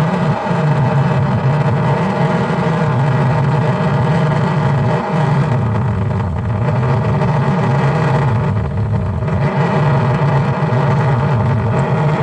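A loud, steady motor running without a break, with a low hum that wavers slightly.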